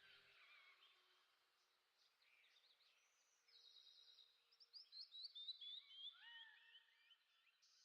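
Faint birdsong: small birds chirping and trilling, with a run of quick falling whistled notes about four to six seconds in.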